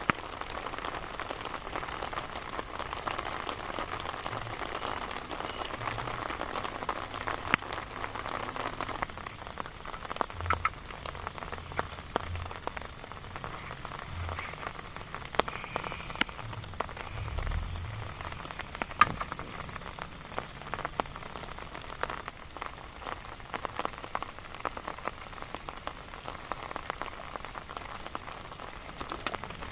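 Rain falling steadily, with many separate drops landing sharply close by and a few louder drops standing out.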